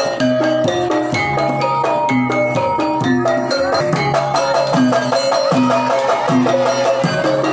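Javanese gamelan music of the kind that accompanies a jaranan horse-dance troupe: struck, ringing metallophone notes over drums and low repeating notes, in a steady cycling pattern.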